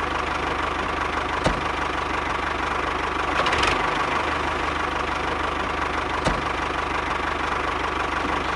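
A motor running steadily with a fast, even chugging pulse, like an idling tractor engine. Two sharp clicks come about one and a half seconds in and again near the six-second mark.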